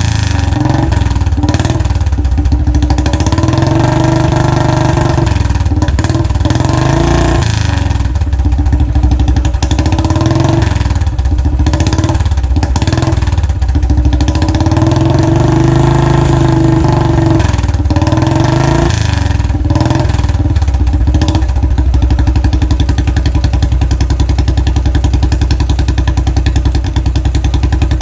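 Royal Enfield Classic 500's single-cylinder engine running through its exhaust. It is revved up and back down several times, then settles to a steady idle for the last third.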